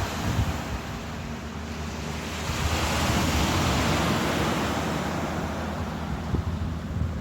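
Ocean surf: a wave washes in and swells about a third of the way through, then slowly eases off, with low wind rumble on the microphone underneath.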